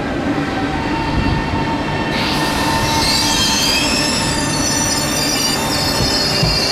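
An SBB RABe 503 (ETR 610) electric passenger train rolls slowly past with a low rumble and a high-pitched metallic squeal from its wheels on the rails, which grows stronger about two seconds in.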